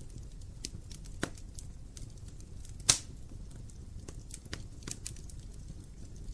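Wood fire burning in a fireplace: a low steady rumble of flame with scattered sharp crackles, and one loud pop about three seconds in.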